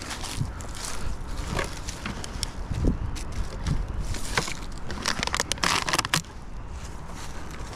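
Dry brush and plastic litter crackling and rustling as they are handled, with scattered snaps and a denser burst of crackling about five to six seconds in.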